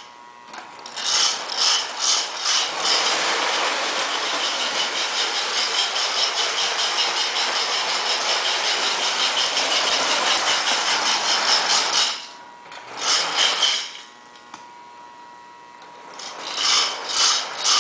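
Lionel MPC-era 2-4-0 Scout steam locomotive running on toy train track with its tender's chugger going. Separate chuffs quicken into a fast, steady rhythmic hiss as the train speeds up. It stops about twelve seconds in, gives a short burst, then starts chugging again near the end.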